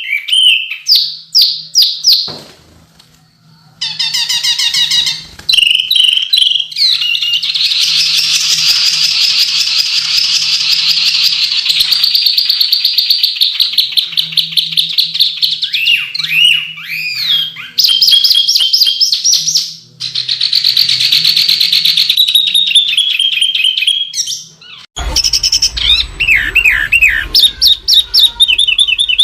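A songbird singing long runs of rapid, sharp trills and chirps with a few short breaks, the kind of dense 'tembakan' bursts used as a master recording for training caged birds. A low rumbling noise comes in near the end.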